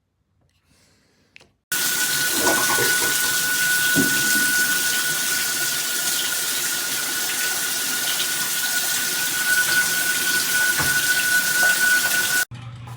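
Shower head spraying water hard, a steady rush with a thin steady whistle running through it. It starts abruptly about two seconds in and cuts off suddenly near the end.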